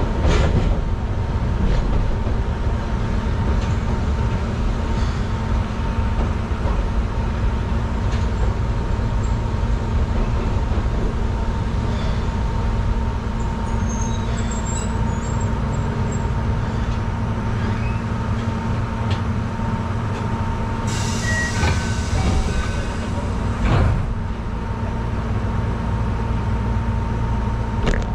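Keihan Ishiyama-Sakamoto Line electric train heard from the driver's cab, drawing into a station and standing at the platform, with a steady low rumble and a thin steady hum. About three quarters of the way through, a hiss of air lasts a few seconds and ends in a knock.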